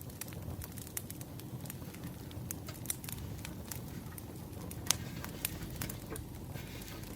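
Crackling campfire: a steady low rumble of burning wood with irregular sharp pops and snaps, one louder pop about five seconds in.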